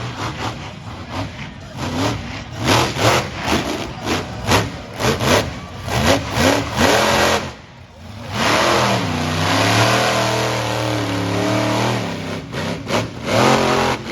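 Monster truck engine revving: a run of quick throttle blips, two to three a second, then after a short drop a longer held rev whose pitch sags and climbs back, with more blips near the end.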